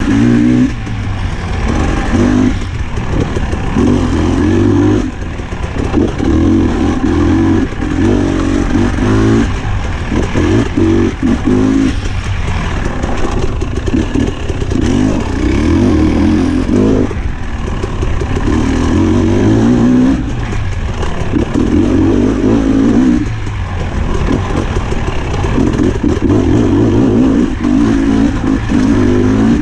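Husqvarna TE300i's 300 cc two-stroke engine revving up and down in repeated bursts, each a second or two long.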